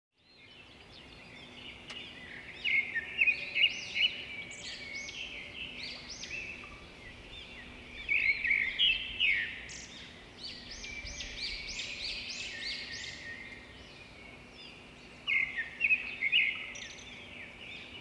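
Several forest birds singing at once, quick overlapping chirps and trills, loudest in bursts about three, eight and sixteen seconds in, over a faint steady low hum.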